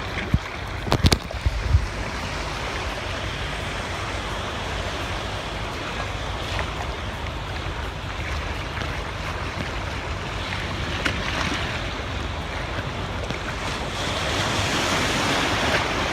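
Sea waves washing and breaking in steady surf, with wind buffeting the microphone. There are a few thumps about a second in, and the surf grows louder near the end.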